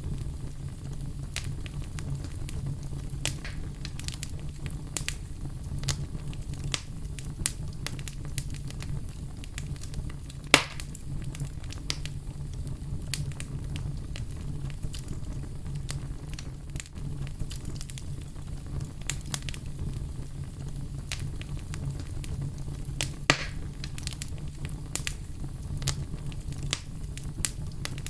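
A fire burning and crackling: a steady low rumble with frequent sharp crackles, and two louder pops, one about a third of the way in and one near the end.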